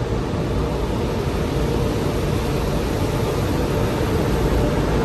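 Car wash tunnel machinery heard from inside the car, most likely the high-powered air dryer blowers: a steady, loud rush of air with a faint steady hum.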